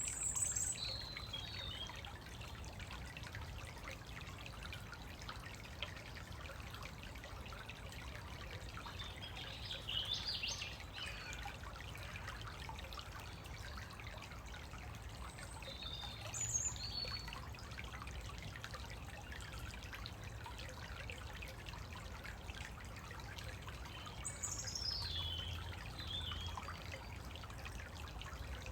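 A small woodland stream trickling steadily, with songbirds singing short, high phrases four times over it. The last phrase near the end runs down in pitch.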